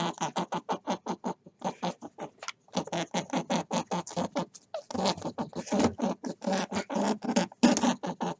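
Rabbit sounds: a rapid, continuous run of short squeaks and grunts, about five or six a second, with a brief pause a couple of seconds in and louder from about halfway.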